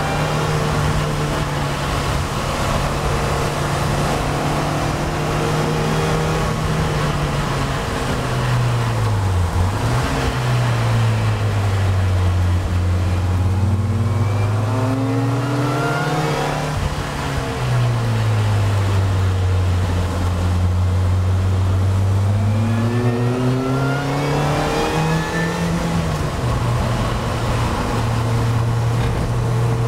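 Vauxhall VX220's four-cylinder engine being driven hard, its note sinking as the car slows about eight seconds in and again near seventeen seconds, then climbing back up through the revs each time.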